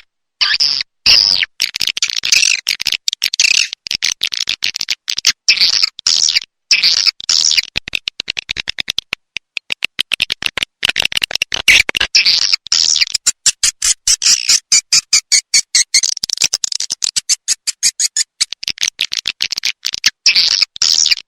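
Recorded swiftlet calls played as a swiftlet-house lure sound: loud, fast trains of clicking chirps and buzzy twitters, broken every second or so by abrupt gaps of silence.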